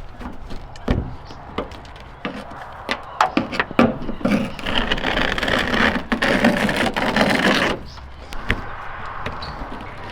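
Hand work on an old pickup during teardown: scattered knocks and clicks of parts and tools, with a steady scraping or rubbing for about three seconds in the middle.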